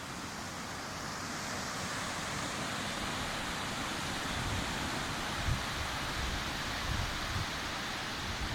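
Sea surf washing in, a steady hiss that swells a little over the first couple of seconds. Low gusts of wind buffet the microphone in the second half.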